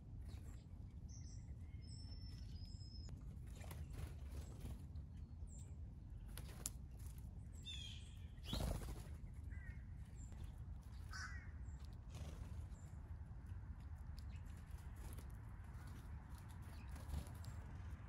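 Wild backyard birds calling: scattered short chirps and calls, with a louder harsh call about halfway through and a few short falling calls after it.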